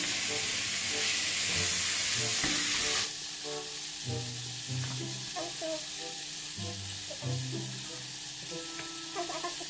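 Cubes of pork belly sizzling as they fry in a pan while being stirred. The sizzle drops noticeably about three seconds in and carries on more quietly.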